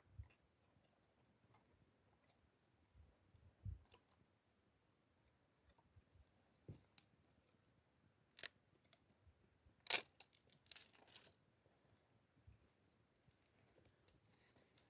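Campfire crackling with scattered sharp pops, a couple of louder pops about two-thirds of the way through followed by a brief run of crackles.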